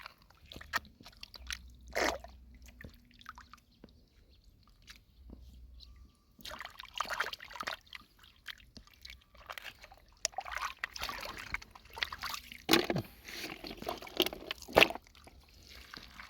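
Shallow lake water sloshing and splashing in irregular bursts, with small sharp clicks, as hands work through the water for snails and clams. It is sparse at first and busier from about six seconds in.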